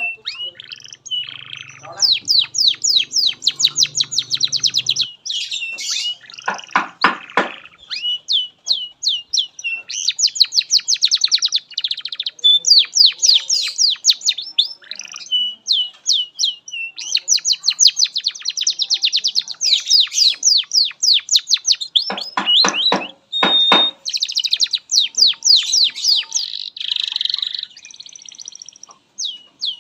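Domestic canary singing a long, almost unbroken song of fast trills, one rapid run of repeated notes after another. Deeper rattling rolls break in about seven seconds in and again about twenty-three seconds in.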